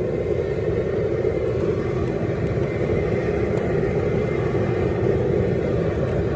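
Propane burner running at high flame under a boiling pot, a steady, loud, unbroken sound.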